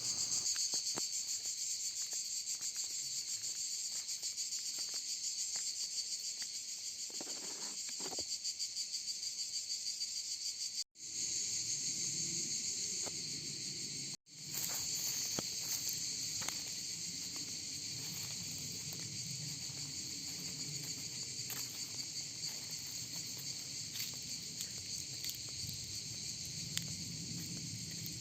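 Insects chirring steadily in a shrill, high, finely pulsing drone, which cuts off briefly twice, about 11 and 14 seconds in.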